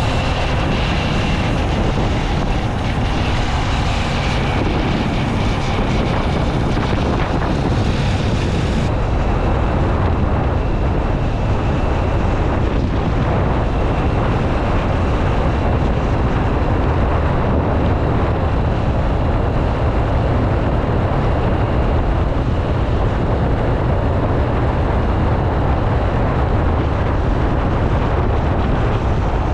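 Motorcycle riding at speed: steady wind rushing over the microphone with the bike's engine and road noise beneath it.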